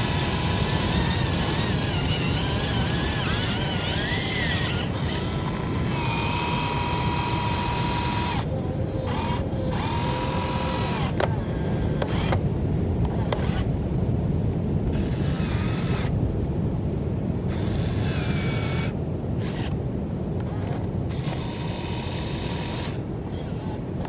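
Heavy construction machinery running: a steady low engine rumble with thin whining tones, broken up by abrupt cuts between short clips.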